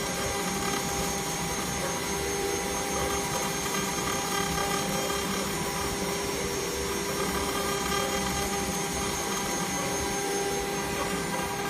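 CNC engraving machine running, a steady whine of several held tones over an even mechanical hiss.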